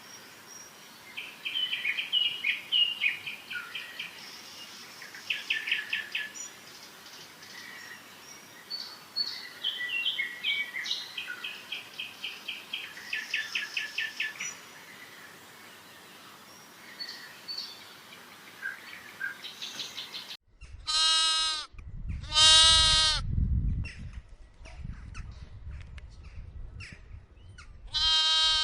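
Small birds singing in short, rapid, repeated trills and chirps. After an abrupt cut come three loud, drawn-out bleats.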